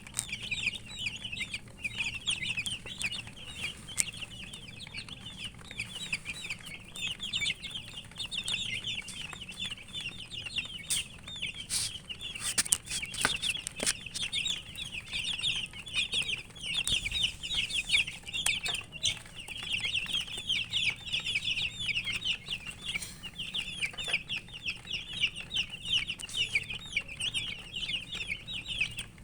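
A brood of domestic chicken chicks peeping continuously, many short high chirps overlapping in a steady stream. A few sharp clicks come about halfway through.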